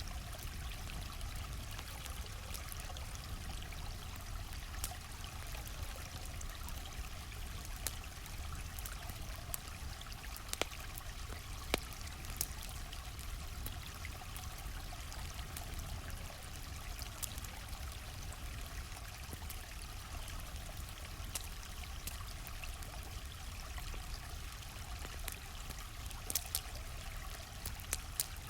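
Steady rush of a gently flowing stream, with scattered sharp pops and crackles from a campfire over it; a few louder pops come around the middle and near the end.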